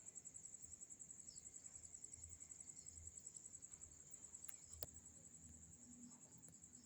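Crickets trilling steadily at night in a fast, even, high-pitched pulse, faint. A single faint click comes about five seconds in.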